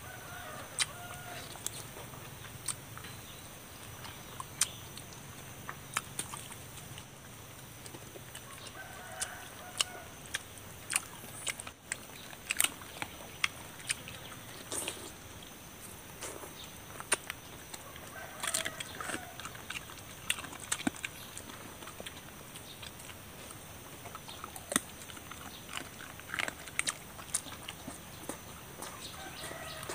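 Close-up chewing and lip-smacking as roasted chicken is eaten with the fingers: many short wet clicks scattered irregularly. A few brief animal calls sound in the background about every nine seconds.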